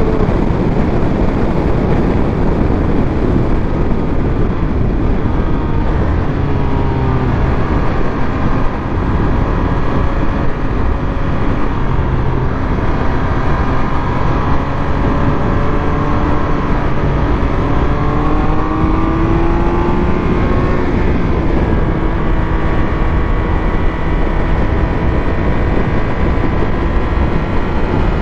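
Triumph Speed Triple 1200 RS's inline-three engine running under way, its note rising and falling as the rider accelerates and eases off, over a steady rush of wind and road noise.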